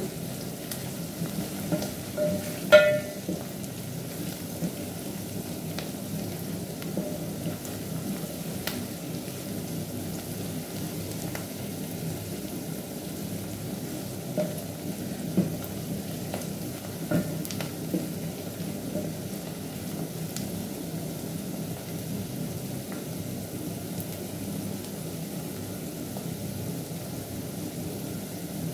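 Chopped onion, green pepper and coriander sizzling in oil in an aluminium pot, stirred with a wooden spoon. A sharp knock with a brief metallic ring about three seconds in, and a few lighter knocks of the spoon on the pot later.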